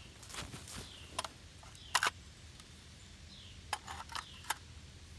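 Scattered sharp clicks and knocks, with short falling bird chirps repeating in the background.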